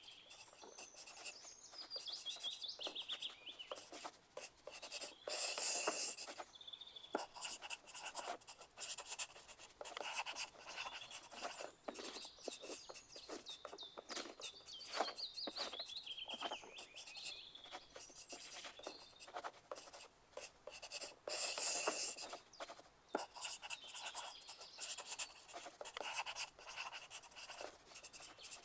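Pencils scratching on paper in quick, uneven strokes, as in an exam room full of writers, louder twice in short scratchy spells. Birds chirp faintly in runs of falling notes now and then.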